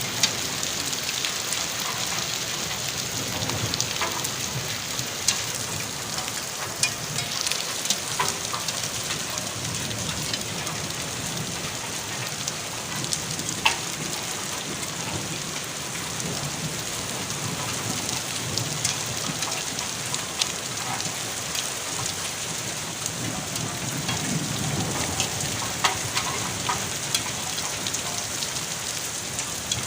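Steady rain falling, a constant hiss with many sharp drop impacts ticking on nearby surfaces.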